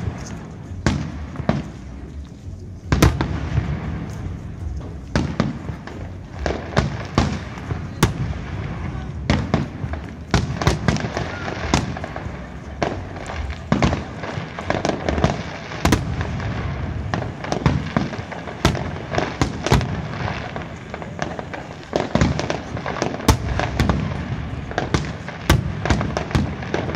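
Aerial fireworks display: shells bursting in rapid, irregular bangs. The bangs are sparser at first and thicken into a near-continuous barrage about three seconds in.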